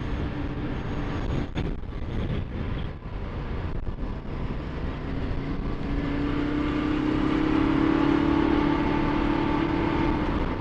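Ducati Multistrada 1260 S's V-twin engine running under way, with road and wind noise. There are brief breaks in the engine note early on as it shifts up with the quick shifter, then it pulls steadily harder, its note rising through the second half.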